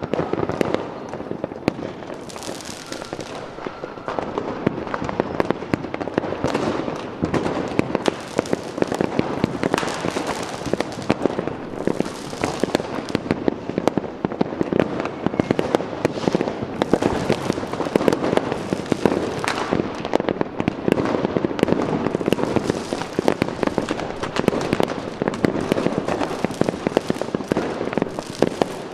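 Fireworks going off continuously: a dense, unbroken run of bangs and crackling from many shells bursting one over another.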